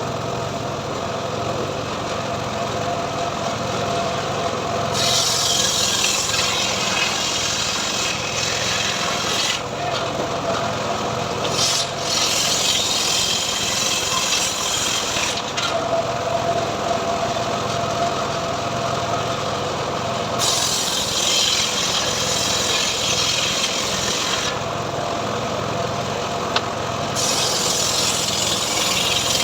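Homemade engine-driven 'srekel' sawmill running steadily while its saw cuts teak into boards. Loud stretches of cutting noise start about five seconds in, around twenty seconds and again near the end, between quieter spells of the engine alone.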